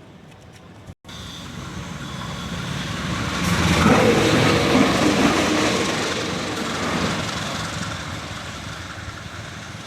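A train passing by on its rails: the rumble and rattle of the wheels swells to a peak about four seconds in, then slowly fades.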